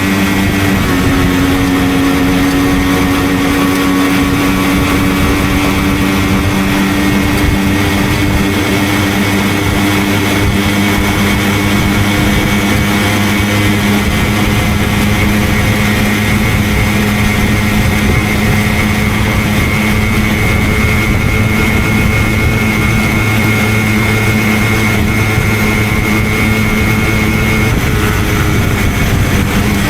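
Simson two-stroke moped engine running at a steady cruise, heard from on board the moving moped; the engine note holds nearly even and shifts slightly near the end.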